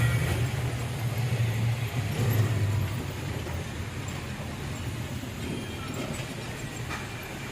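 Heavy vehicle running with a steady low rumble that eases off after about three seconds.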